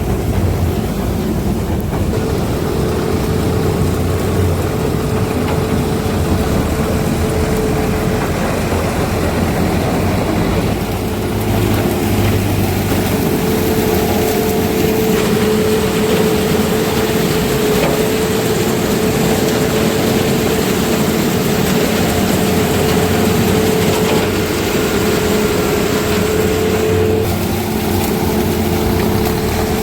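Heavy diesel farm machinery running steadily under load, a constant engine hum with a held whine over it.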